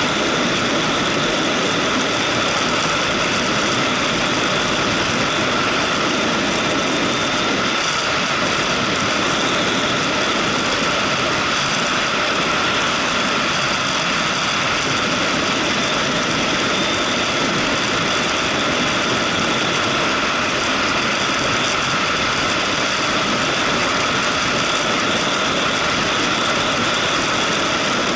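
Motorcycle running steadily while riding, a constant engine and road noise that does not change through the stretch.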